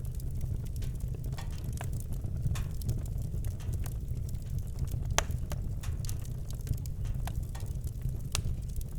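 Campfire crackling: scattered sharp pops and snaps, the loudest about five seconds in, over a steady low rumble.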